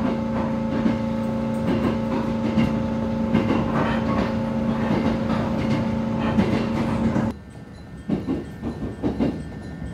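Train running, heard from inside the car: wheels clattering on the rails under a steady drive hum. About seven seconds in the hum cuts off suddenly and the train coasts on more quietly, wheels still knocking over the track, as it nears a station stop.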